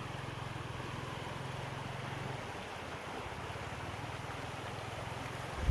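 Steady rushing of stream water, with a low rumble of wind on the microphone that eases a little over two seconds in.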